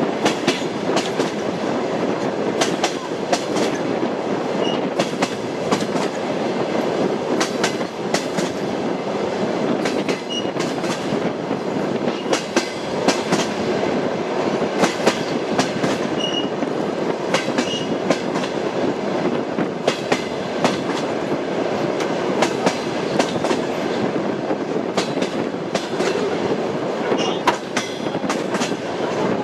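Train wheels running over the rails: a steady rumble with a repeating clickety-clack of the wheels striking the rail joints, some clacks in quick pairs.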